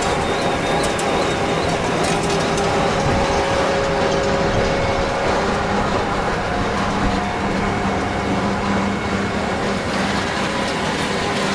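Commercial circular sawmill machinery running steadily: loud, continuous machine noise with a low steady hum.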